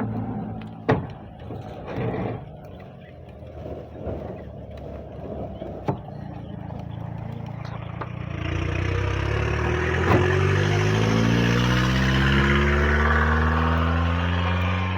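A motor vehicle's engine running loudly close by, coming in about eight seconds in with its pitch shifting as it goes. Before it, a few sharp knocks.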